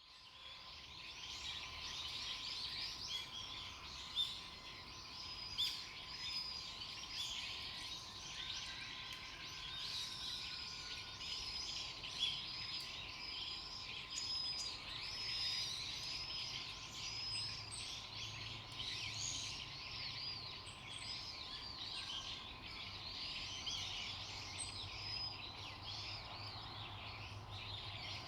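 Dense, continuous chorus of many small birds chirping and twittering, with a few louder single calls standing out. A faint steady hum runs underneath.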